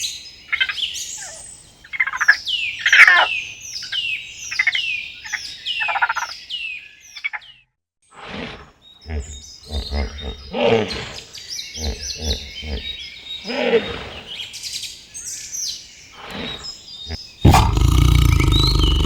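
Bird calls: a run of quick, high chirps that each fall in pitch, about two a second, for the first seven seconds or so. After a short break comes another series of animal calls, and near the end a loud, rough, steady sound starts abruptly.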